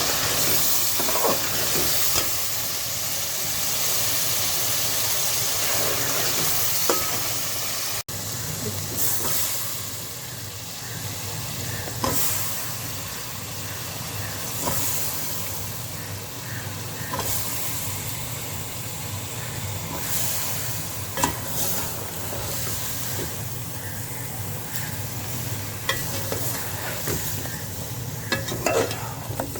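Chicken and tomato masala frying in a pot, sizzling steadily while a spoon stirs it, with scattered scrapes and knocks of the spoon against the pot. The sizzle drops in level about eight seconds in.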